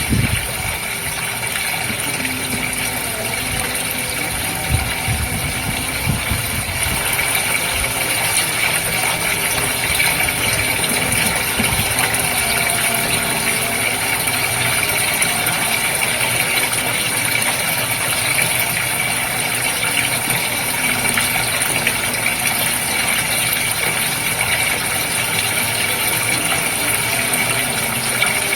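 Goldfish aquarium water bubbling and trickling, with the steady hum and rattle of the tank's pump.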